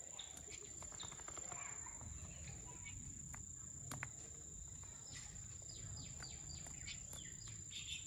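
Quiet outdoor ambience with faint bird chirps: a quick run of about five short, falling chirps about five seconds in, over a steady thin high-pitched whine and a low rumble.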